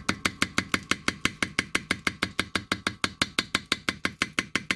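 Hammer rapidly tapping on coarse sandpaper laid over a Vespa engine case, an even series of sharp knocks at about seven blows a second. The blows roughen a smoothed patch of the case so the new engine number looks original.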